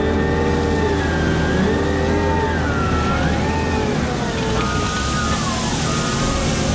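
Heavy wheel loader working, its engine drone steady under a drivetrain whine that glides up and down in pitch. About two-thirds of the way in, a reversing alarm starts beeping roughly once a second.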